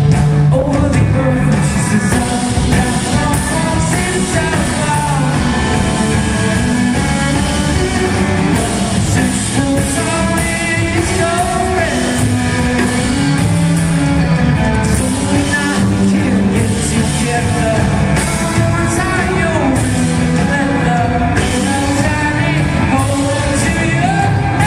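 Live rock band music, playing steadily without a break.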